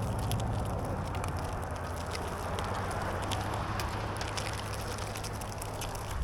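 Steady rolling noise from a Onewheel riding over pavement, with wind rumbling on the microphone and scattered small ticks and crackles.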